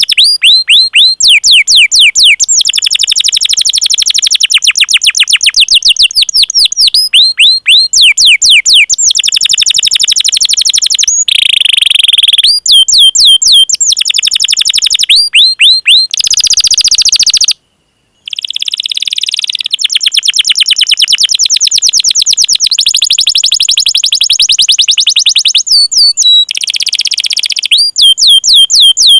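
Domestic canary singing loudly and without pause: quick repeated downward-sweeping 'cuit cuit' chirps alternating with long, very fast rolling trills, with one brief break just past halfway.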